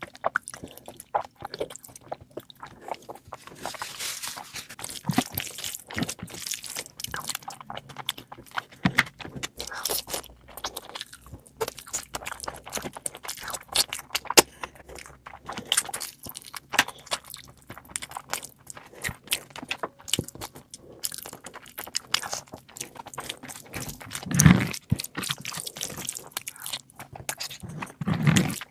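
A person eating close to the microphone: irregular chewing, biting and crunching of food, with a louder, lower mouth sound about three-quarters of the way through.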